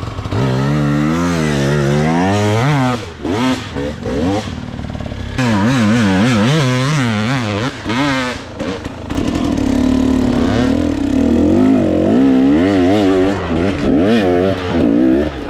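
Dirt bike engine being ridden hard, revving up and down over and over as the throttle is opened and shut, with short dips where the throttle is cut about three and eight seconds in.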